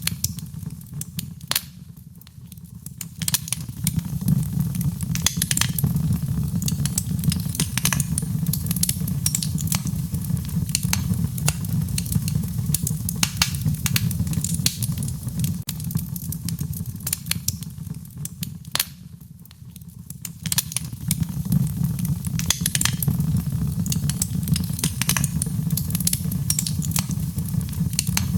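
Wood fire burning, with frequent sharp crackles and pops over a steady low rumble of flame. The sound eases briefly twice.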